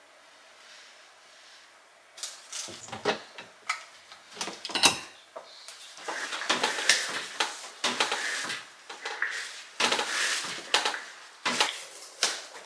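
Household things being handled: about two seconds in, a run of clicks and knocks begins, mixed with stretches of rubbing or scraping.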